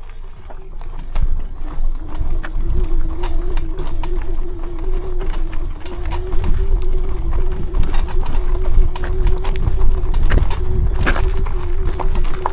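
Rear hub motor of a fat-tire e-bike whining at a steady pitch under load while climbing a steep hill in rear-wheel drive. Low wind rumble on the microphone and scattered clicks and knocks from the tyres on rough ground run with it.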